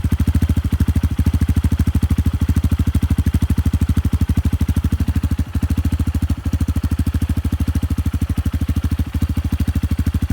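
Honda CRF150L single-cylinder four-stroke engine idling steadily through a replica FMF aftermarket exhaust, a rapid, even beat of exhaust pulses.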